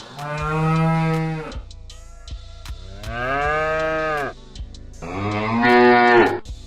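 Domestic cows mooing: three long moos a second or so apart, the last the loudest.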